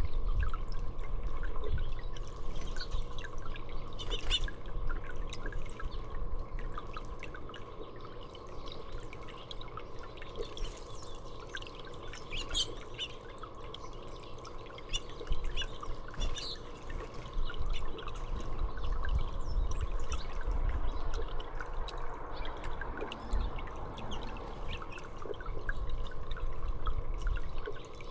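Small birds chirping in short, scattered calls over a steady trickle of water, with a faint steady hum underneath.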